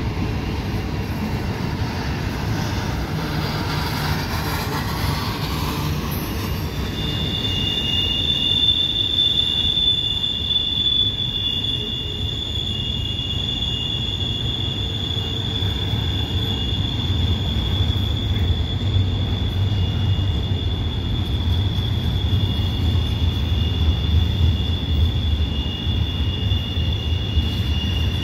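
Double-stack intermodal freight train rolling past with a steady low rumble of wheels and cars. From about seven seconds in, a steady high-pitched wheel squeal joins in and holds: wheel flanges grinding against the rail as the train takes the curve.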